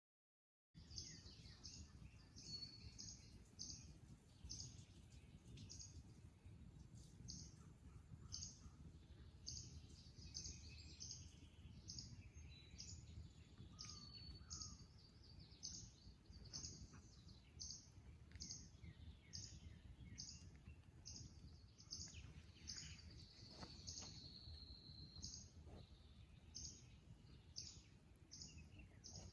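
Birds calling in a marsh at dawn: short high chirps repeating about once or twice a second, with a few lower chirps, over a low steady rumble of background noise. The sound begins just under a second in.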